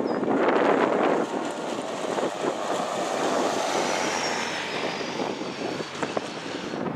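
Freight train cars rolling past: a steady rumble of steel wheels on rail, broken by sharp clicks and clanks, with a faint high whine in the middle.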